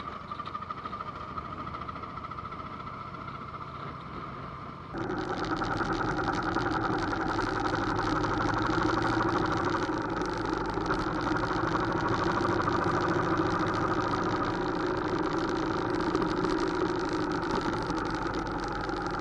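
Motorcycle engine running steadily, stepping up suddenly in level about five seconds in and then holding steady.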